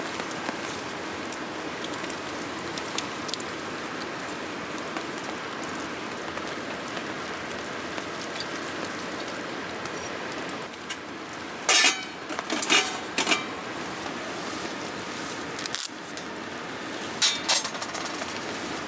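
Steady rain falling, with a cluster of sharp clinks of dishes or utensils about two-thirds through and two more near the end.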